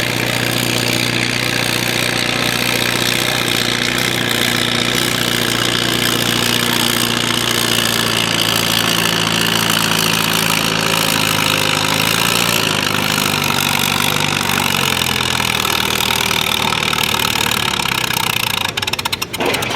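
A modified Farmall M tractor's engine runs hard under load while pulling a weight-transfer sled. Its pitch sinks gradually through the second half as the engine lugs down against the sled, then about a second before the end the sound drops away abruptly, as at the end of the pull.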